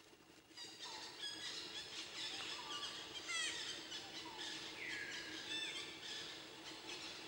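Several birds chirping and singing together, a dense mix of short calls and quick rising and falling notes that starts about half a second in.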